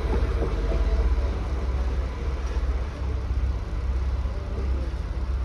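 Renfe Rodalies electric commuter trains moving through the station, a steady low rumble of wheels rolling on the rails.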